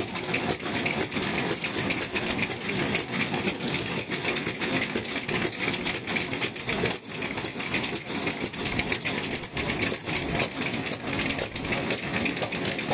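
Vintage Japanese stationary kerosene engine (hatsudoki) running, a fast, steady mechanical clatter of valve gear and firing.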